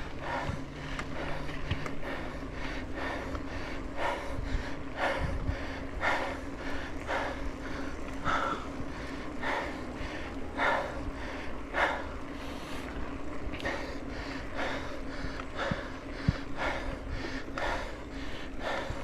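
A mountain-bike rider panting heavily, with quick rhythmic breaths about once or twice a second: out of breath from pedalling up a steep climb. A steady low hum runs underneath.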